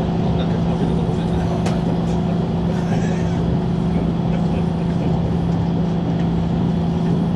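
Running noise inside a JR Shikoku 8000 series electric train at speed: a steady low hum with one constant tone over even rail rumble, with a few faint clicks.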